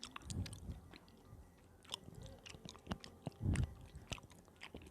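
Close-miked chewing of soft, sticky food, with many small wet clicks of the mouth and two low soft thuds, about half a second and three and a half seconds in.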